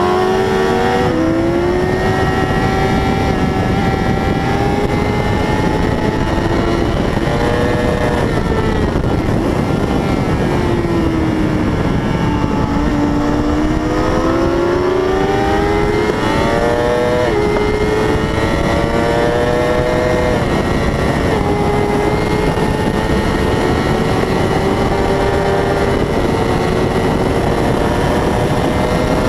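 600cc racing motorcycle engine at full race pace, its pitch climbing through the revs and dropping sharply at each upshift, falling away as it slows into a corner, then climbing again, over a steady rush of noise.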